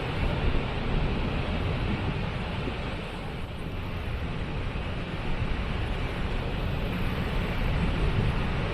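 Waterfall: falling water making a steady rushing noise that is heaviest in the low end.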